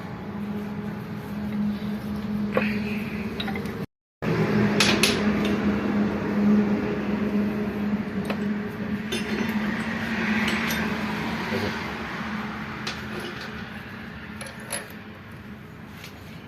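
Metal tools and parts clinking and knocking now and then, over a steady low hum, as a tractor gearbox is worked on.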